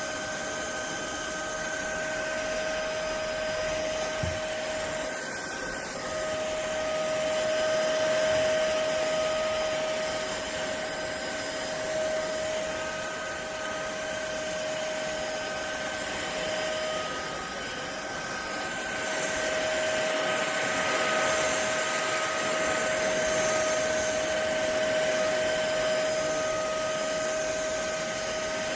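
ElecKeys K10 cordless stick vacuum cleaner running, a steady motor whine over rushing airflow that swells and dips in loudness as it is worked. There is one light knock about four seconds in.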